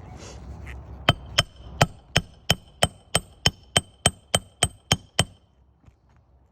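A hand hammer striking a roofing nail about fourteen times in a steady run of roughly three blows a second, each blow ringing with a metallic ping. The blows stop about five seconds in.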